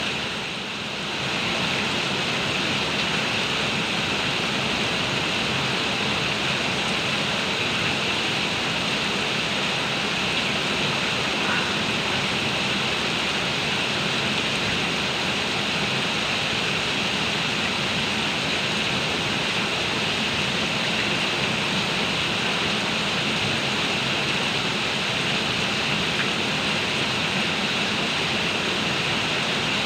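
Heavy rain pouring down in a dense, steady hiss, dipping slightly in loudness about a second in.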